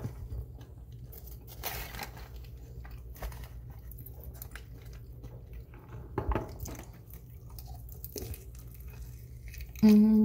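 Close-up chewing of pizza fries and honey barbecue chicken wings, with scattered soft wet mouth clicks, then a bite into a wing. Just before the end comes a short, loud hummed "mm" from the eater.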